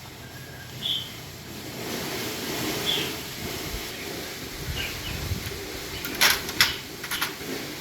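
Short, high bird chirps every couple of seconds over steady outdoor background noise, with a short cluster of sharp clicks about six to seven seconds in.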